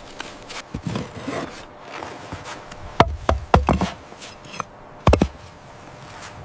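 Hard wooden knocks and clatters, a quick cluster of four about three seconds in and a loud double knock about five seconds in, with rubbing and scraping between them.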